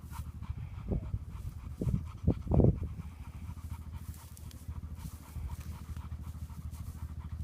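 Bird dog panting quickly, with a few louder bumps between about one and three seconds in.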